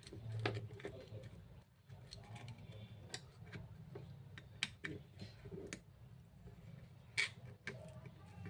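Faint, scattered clicks and light taps, a dozen or so at uneven intervals, typical of small parts and tools being handled during a repair, over a low steady hum.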